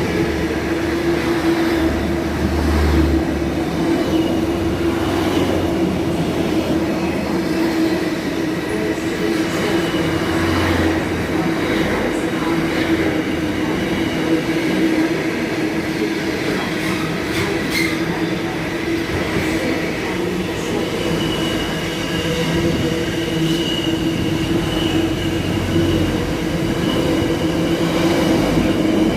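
Freight train rolling through the station, a steady rumble of wagons on the rails, with a thin wheel squeal in the second half.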